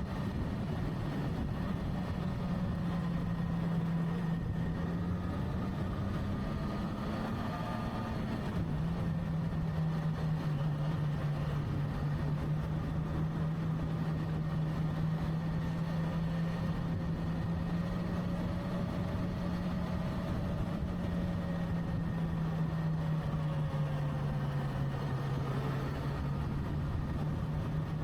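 Motorcycle engine running steadily while riding, over a rush of road and wind noise. Its note climbs a little, then drops suddenly about eight seconds in, and sinks slowly again near the end.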